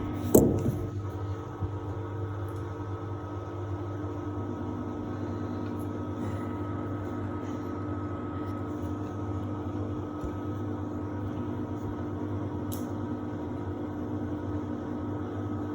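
Samsung WD70T4047CE washer-dryer running in its drying phase, giving a steady mechanical hum with several constant tones. A single knock comes near the start.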